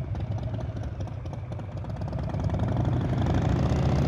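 Motorcycle engine running steadily at low revs, a low, evenly pulsing sound that grows a little louder about three seconds in.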